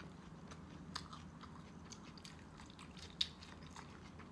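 Faint close chewing of baked pork with crisp skin, with soft wet mouth sounds and scattered small crunchy clicks; the clearest crunch comes about three seconds in.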